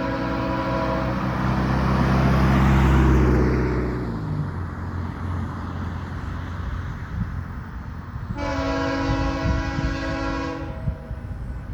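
Horn of a BNSF diesel locomotive sounding a chord that cuts off about a second in; the two lead locomotives then pass close with a loud engine rumble that drops in pitch about four seconds in, followed by the rolling of the loaded gravel cars on the rails. The horn sounds again for about two seconds near the end.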